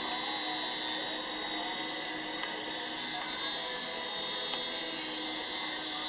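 Helicopter running steadily: a continuous high-pitched whine made of several steady tones, with little low rumble.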